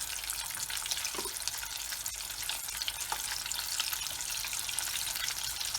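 Flour-coated chicken pieces deep-frying in hot oil, a steady crackling sizzle with many small pops.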